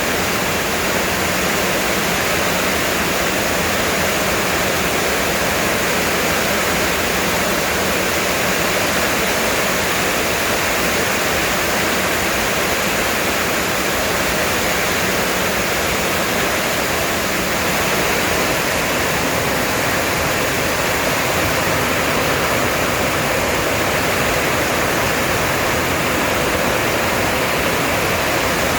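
Heavy rain pouring steadily, a dense even hiss with no breaks or changes.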